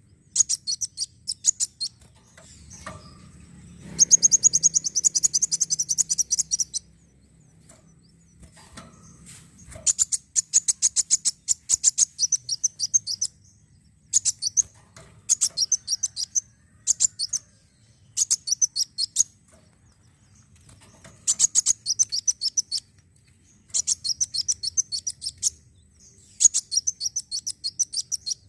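Kolibri wulung sunbird singing: repeated bursts of rapid, high-pitched chirping trills a second or two long, with short pauses between them. The longest and loudest trill comes about four seconds in.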